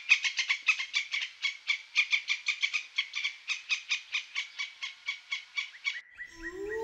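Eurasian red squirrel chattering: a fast series of short, sharp calls, about five a second, growing weaker towards the end. Just after six seconds in, the calls stop and a wolf's howl begins, one long note that rises slightly and then holds steady.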